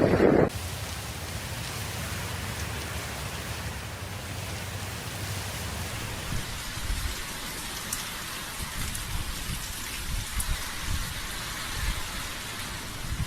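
Heavy rain falling in a steady hiss, starting abruptly about half a second in, with irregular low rumbles through the second half.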